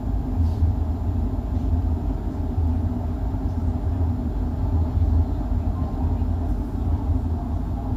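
Steady low rumble of a 25G passenger coach running along the track, heard from inside the sleeper compartment.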